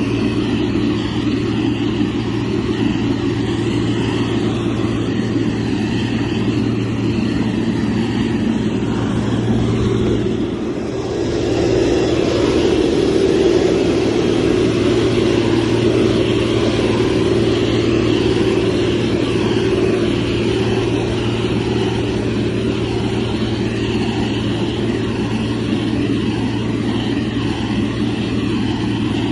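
Motor grader's diesel engine running steadily under work. About ten seconds in it eases off briefly, then pulls harder for a few seconds before settling back to a steady run.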